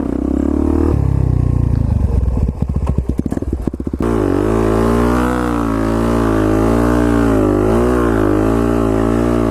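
A motorcycle engine running and revving under the rider, pulsing unevenly. About four seconds in it cuts off abruptly to a steady, wavering drone of music.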